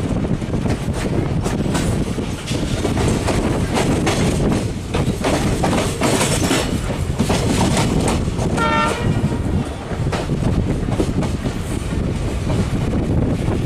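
Passenger train running at speed, heard from the door of a moving coach: a steady rumble with wind and a rapid clatter of wheels over the rails. A brief shrill tone sounds about nine seconds in.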